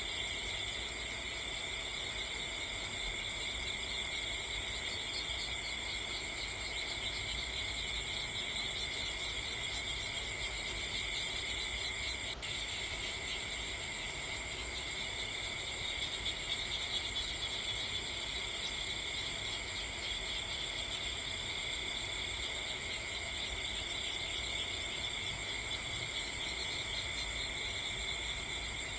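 Steady chorus of insects trilling without pause at several high pitches at once, with a single faint tick about twelve seconds in.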